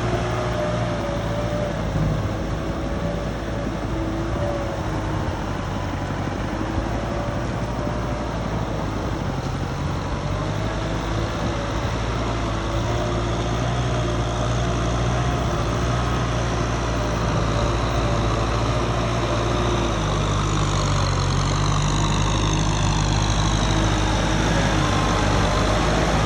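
Tractor engine running steadily while driving a rotary tiller, with a low drone and a wavering whine above it; the engine note steps up about twenty seconds in.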